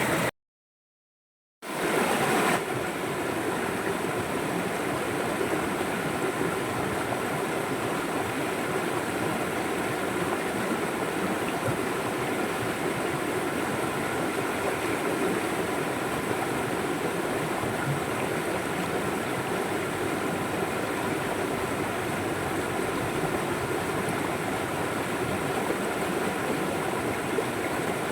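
River water flowing steadily in an even rush. It cuts out to silence for about a second near the start, then comes straight back.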